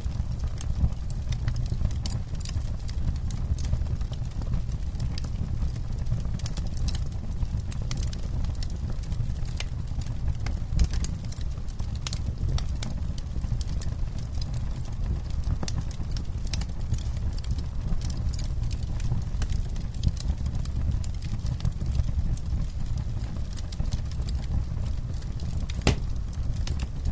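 Campfire burning, with frequent irregular crackles and sharp pops of the burning wood over a low, steady rumble.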